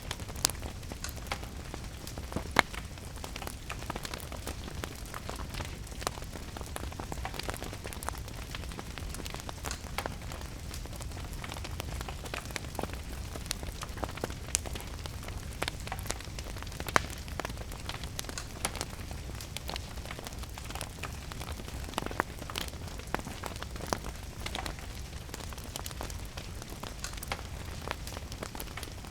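A wood fire crackling, with frequent sharp snaps and pops, one louder pop a few seconds in, over a steady hiss of rain and a low, steady rumble.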